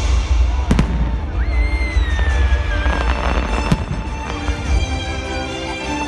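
Fireworks bursting over a loud music soundtrack: sharp bangs about four times, a whistle falling in pitch about a second and a half in, and a brief crackle around three seconds in.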